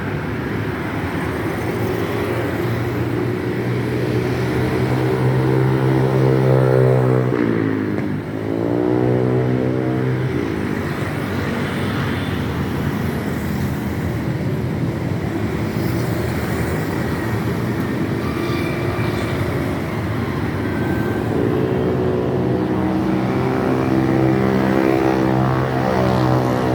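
Motor vehicle engine running on the move over road noise. Its pitch holds steady, drops and climbs back again about eight seconds in, and does the same about twenty-one seconds in.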